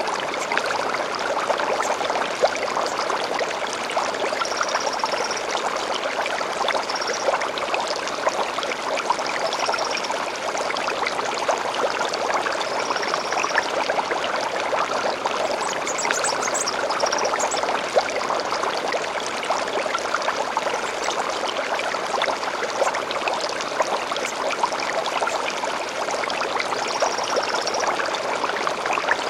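Shallow stream flowing steadily, a constant babble of trickling and splashing water. Short, high bird calls come in over it every few seconds.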